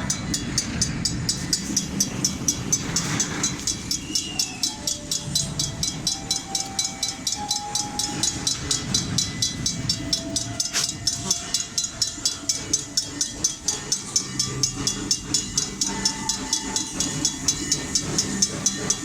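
Railroad crossing bell ringing steadily, several strikes a second, over the low rumble of the train.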